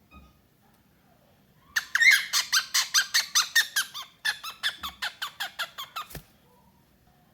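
Pet parrot calling in two quick runs of short, sharp notes, about five a second, each note sliding down in pitch; the first run starts about two seconds in and the second follows after a brief break. A soft knock comes at the end of the second run.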